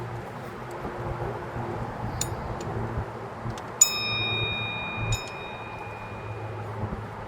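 Light metallic clicks, then a sharp metal-on-metal clink about halfway through that rings with a clear bell-like tone for a few seconds, and another clink a second later: steel hand tools striking metal.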